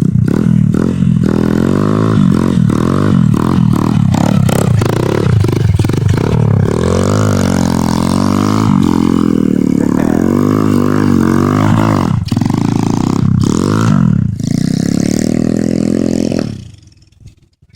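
140cc pit bike's single-cylinder four-stroke engine revved hard: quick blips in the first few seconds, then longer rises and falls in pitch. The sound drops away sharply near the end.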